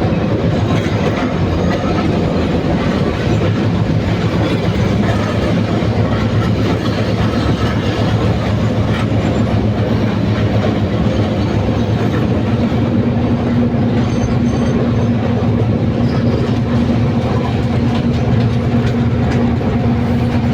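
Sri Lanka Railways diesel train running on the rails, wheels clattering steadily over the track, with a low steady hum underneath.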